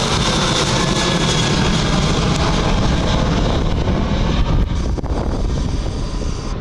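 Jet engines of a Boeing 737-800 airliner passing, a loud steady rumble and hiss whose pitch drifts slightly down early on. The hiss fades after about four and a half seconds, with wind buffeting the microphone.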